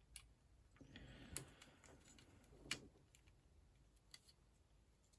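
A few faint, sharp clicks of small plastic building-block pieces being handled and pressed into place, with soft rustling between them; the clearest clicks come about a second and a half and nearly three seconds in.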